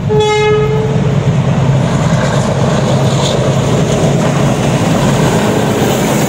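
A Pakistan Railways diesel locomotive sounds a short horn blast of about a second. It then passes close by with its engine running loudly, hauling a rake of passenger coaches rolling over the rails.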